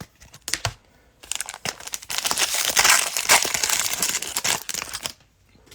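Cellophane wrapper of a football-card cello pack being torn open and crinkled: a few light clicks, then about four seconds of dense crackling that stops suddenly.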